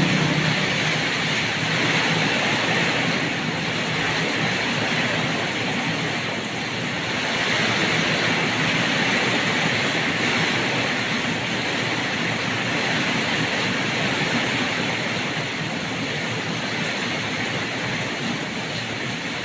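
Heavy rain pouring down steadily: a dense, even hiss that swells and eases slightly.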